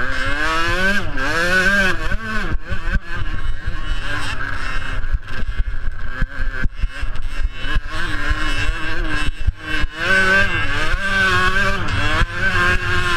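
Small two-stroke motocross bikes racing, their engines revving up and down over and over as they accelerate and back off. The clearest, closest rises and falls come in the first couple of seconds and again from about ten seconds in.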